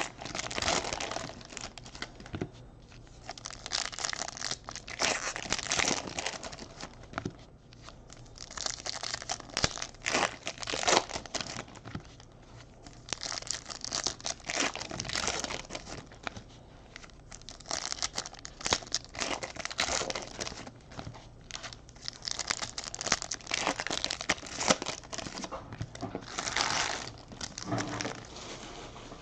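Foil trading-card pack wrappers crinkling and tearing as packs are opened and handled, in repeated bursts of crackling with short pauses between.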